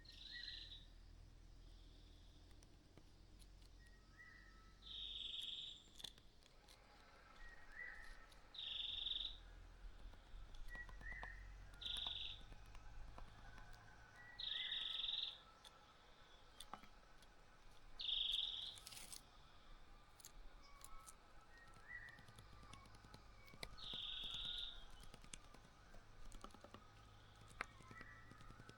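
Small birds chirping: a high call of under a second repeats about every three seconds, with softer short chirps and a few faint clicks in between.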